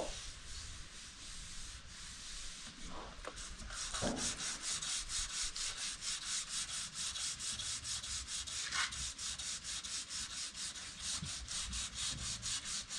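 Hand sanding with sandpaper: quick, even back-and-forth strokes, several a second, with fainter rubbing before the steady strokes start about four seconds in.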